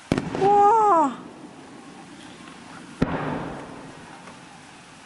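Aerial firework shells bursting at a distance: a sharp bang just after the start and another about three seconds in, the second trailing off in a rumble for about a second. A person's voice exclaims right after the first bang.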